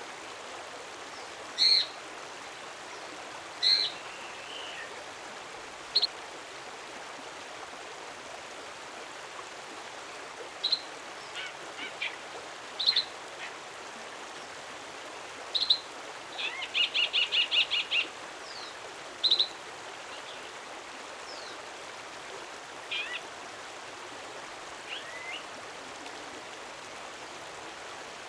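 A wild songbird calling, with short sharp notes repeated every second or two and one quick trill of about eight notes in the middle, over a steady background hiss.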